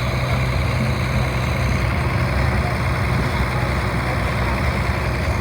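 Vintage farm tractor engine running steadily.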